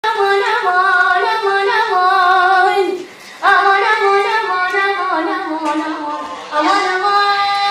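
A child singing a mawwal, the Arabic improvised vocal form: long held notes with wavering ornaments, in phrases broken by a short breath about three seconds in.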